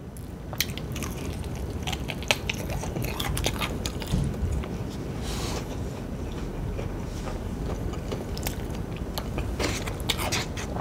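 Close-miked chewing and biting of crispy fried chicken: irregular crunches and wet mouth clicks.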